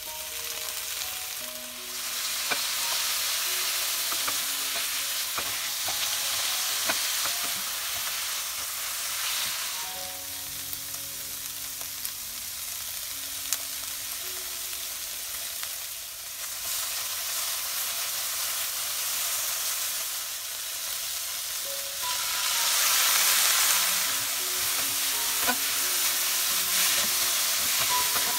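Boiled bamboo shoot strips sizzling in hot oil in a nonstick wok as they are stir-fried with a wooden spatula, with a few light knocks of the spatula. The sizzle swells louder about two-thirds of the way through.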